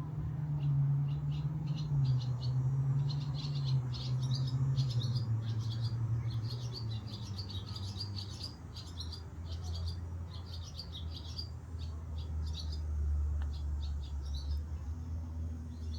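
Small birds chirping in quick runs of short, high calls, over a loud low rumble that slowly drops in pitch during the first half and then holds steady.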